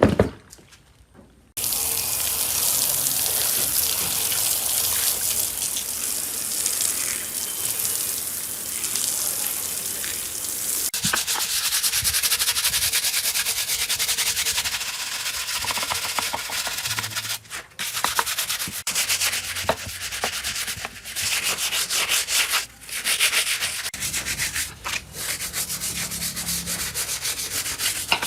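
Abrasive sanding of a metal part being restored: a steady rough scraping that starts about a second and a half in and pauses briefly twice.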